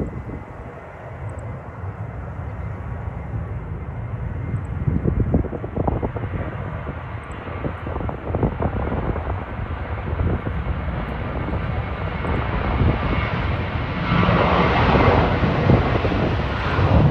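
Jet engines of a Boeing 737-800 running at high power, growing steadily louder and brighter, loudest in the last few seconds. Gusty wind buffets the microphone throughout.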